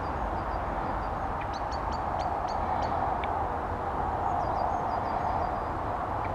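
Small birds chirping, short high notes in quick clusters, over a steady background hum of outdoor noise.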